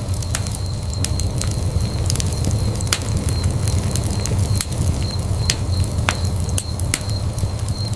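Wood fire in a fireplace crackling, with irregular sharp pops a few times a second over a steady low rumble of the flames. A faint steady high tone runs underneath.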